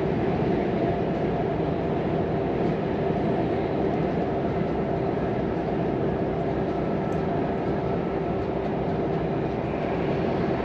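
Volvo FM 420 truck cruising at a steady speed, its diesel engine drone and tyre and road rumble heard from inside the cab, with a constant hum.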